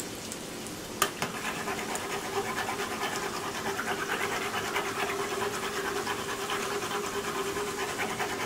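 Chicken empanadas deep-frying in hot oil, a dense sizzle full of small crackles. A sharp knock about a second in, as the spoon goes into the pot, and the sizzle grows louder from then on.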